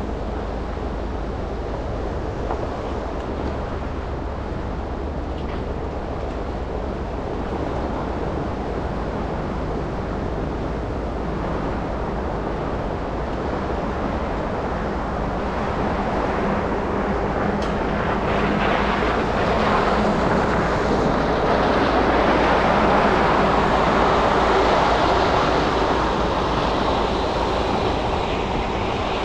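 Car driving through city traffic on snowy streets: a steady rush of road and tyre noise that swells louder in the second half, then eases slightly near the end.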